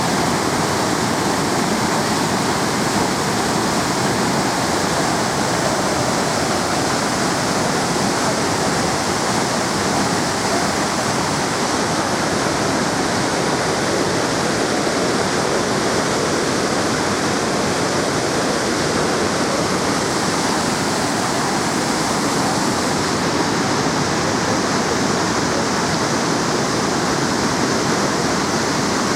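Iguazu Falls: the steady, loud rush of a large waterfall, a constant wash of falling water.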